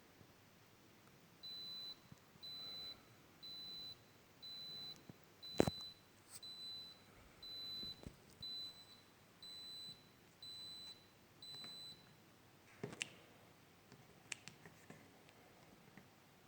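An electronic beeper sounding a high single-tone beep about once a second, each beep half a second long, eleven in a row before it stops. Sharp clicks come between and after the beeps, the loudest about five and a half seconds in.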